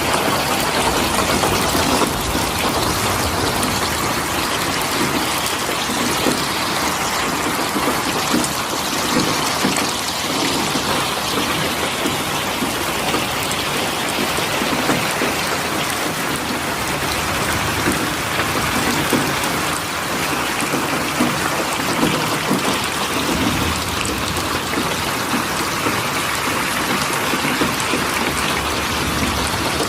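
Steady rain falling, an even hiss of many drops on surfaces with no break.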